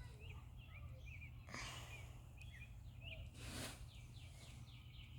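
Small birds chirping, many short calls with a quick run of descending notes near the end, over a low steady rumble. Two brief rushes of noise come about one and a half and three and a half seconds in.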